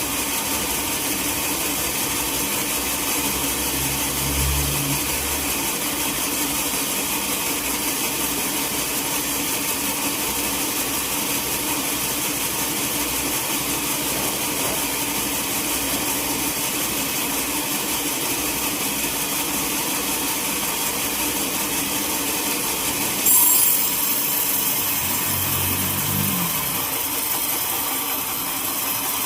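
Sawmill saw running steadily through timber, a constant mechanical whine and rush with a steady hum. About 23 seconds in there is a brief, louder hissing surge.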